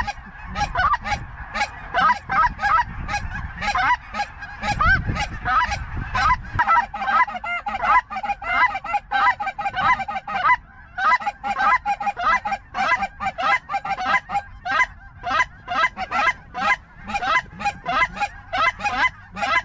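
Goose honking: a dense, continuous run of short honks, several a second and overlapping, typical of geese working over a decoy spread. A low rumble sits under it for a couple of seconds near the middle.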